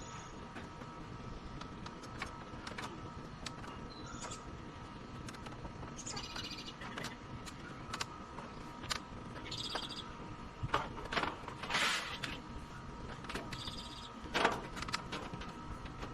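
Short bird chirps every few seconds over a steady hum, with scattered sharp clicks and knocks from work on the siding.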